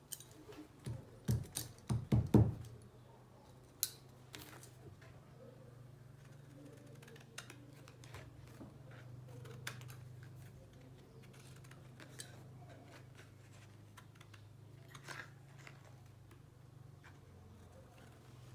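Scissors cutting paper: scattered short snips of the blades. A few loud low thumps come between one and two and a half seconds in, and a steady low hum runs underneath.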